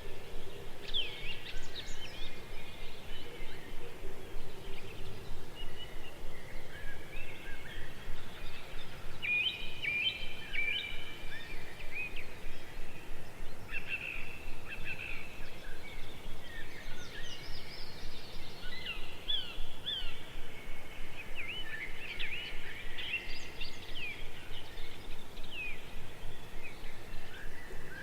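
Many small birds chirping and trilling in short repeated calls over a steady background noise.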